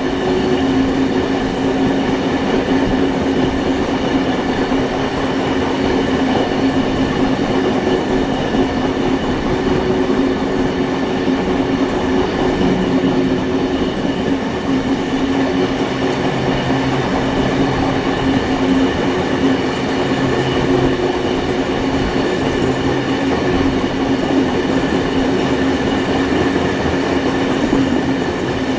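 Train hauled by steam locomotives 3526 and 3265 running along the line, heard from a carriage on board: a steady rolling noise of wheels on rail, with some clickety-clack and a constant hum.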